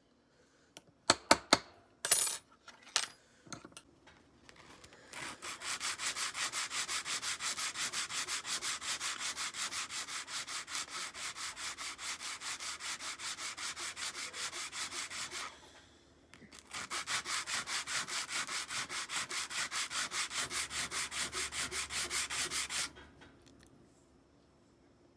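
Hand sanding on part of a folding knife: a few light knocks as the work is set up, then quick, even back-and-forth abrasive strokes in two long runs with a short pause between.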